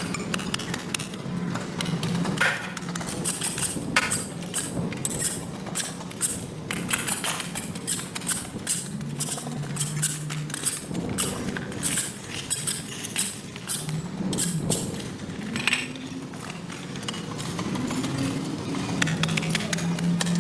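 Irregular scrapes and knocks of hand tools clearing mud and debris from wet pavement, over a low steady hum.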